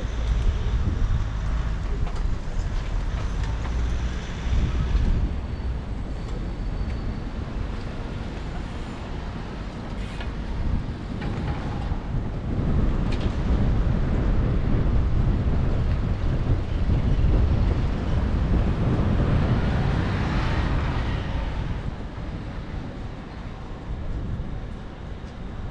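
City road traffic heard from a moving bicycle, a steady rumble of passing vehicles. The noise swells as a louder vehicle goes by in the second half, then eases off.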